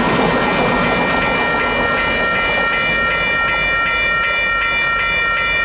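Freight train passing, its rail cars rumbling and clattering over the track. Over it runs a high ringing tone that pulses about three to four times a second and grows stronger partway through.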